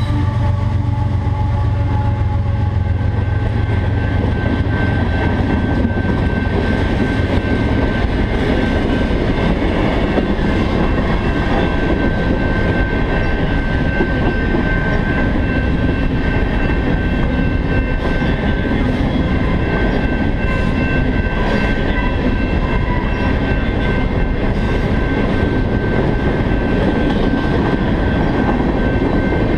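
GE diesel freight locomotives passing with a low engine drone, their horn note trailing off in the first few seconds. After about eight seconds the drone fades and loaded tank cars roll by in a steady rumble of wheels on rail, with some clickety-clack and a thin steady high tone.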